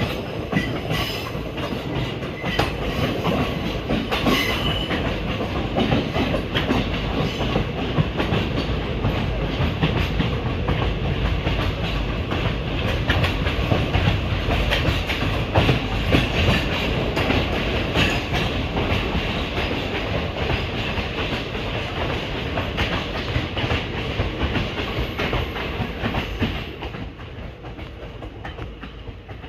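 Indian Railways passenger train running on the track, wheels clicking over rail joints over a steady rumble. The sound falls off noticeably near the end.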